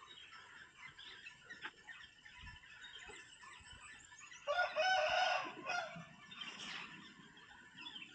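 A rooster crowing once, about halfway through: one loud call of about a second and a half that trails off.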